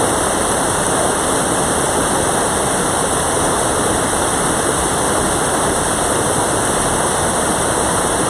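Mountain valley stream rushing steadily, a loud even wash of running water.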